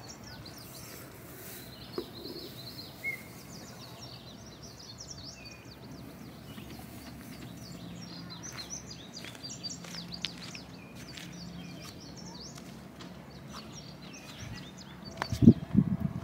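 Small birds chirping and calling in the open-air background of a lakeshore, with many short, faint chirps throughout. Near the end, a loud low rumble close to the microphone.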